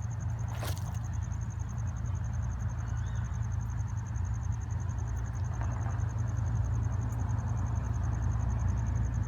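Low, steady rumble of an approaching Florida East Coast diesel freight train, slowly growing louder, with a single sharp click about a second in.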